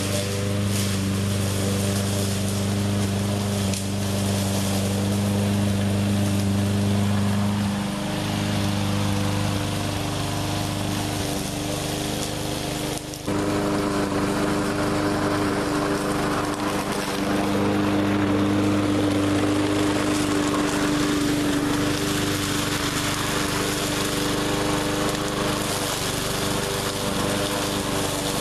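Small engine of a 20-inch walk-behind push mower running steadily. Its note shifts a few times, with a brief drop about halfway through.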